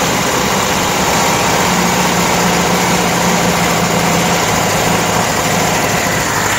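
Air-cooled flat-four engine of a 1972 VW Variant, fed by twin Solex carburettors, running steadily at a high fast idle. The throttle stops are opened right up because it will not hold a normal idle, which the mechanic puts down to blocked idle and progression circuits; a carburettor diaphragm is also leaking.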